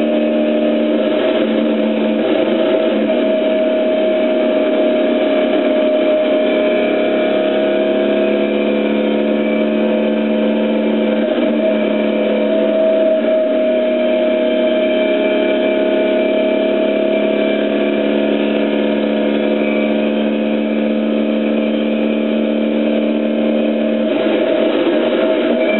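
Competition car's engine heard from inside the cockpit, running hard at fairly steady revs while climbing, with small slow shifts in pitch. It sounds rougher about a second in and again near the end.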